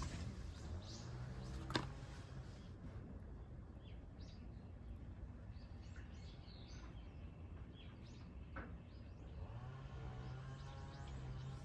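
Faint, scattered bird chirps over a steady low hum, with one sharp click about two seconds in.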